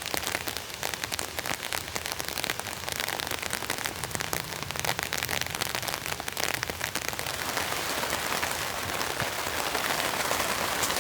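Rain falling steadily, with many separate drop impacts ticking through an even hiss. It grows a little heavier and louder toward the end.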